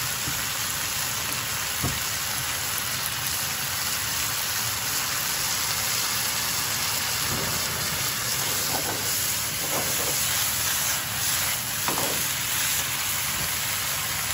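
Sliced beef and thick-cut Japanese leeks (negi) sizzling steadily in a frying pan, with a few faint clicks.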